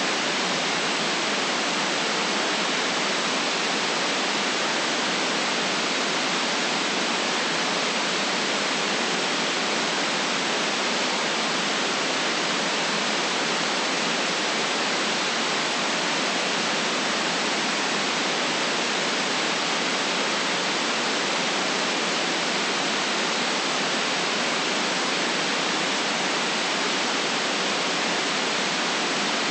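Steady synthetic white noise: an even, unchanging hiss, with little below the low end and nothing above the top of the upload's range.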